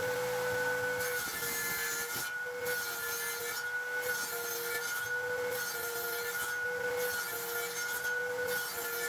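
Power tool running steadily on wood, its motor holding a constant pitch under a rasping noise that swells and dips about once a second in a back-and-forth rhythm.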